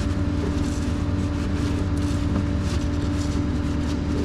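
Flatbed tow truck's engine running at a steady idle: a low, even drone with a steady hum.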